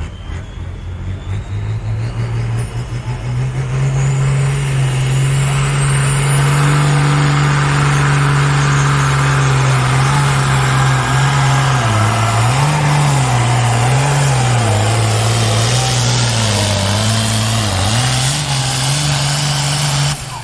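Pro Farm class pulling tractor's turbocharged diesel engine at full power under the sled's load. The engine note climbs over the first few seconds with a rising turbo whistle, then holds steady. Near the end it rises and falls several times as the wheels light up and spin, and the run ends.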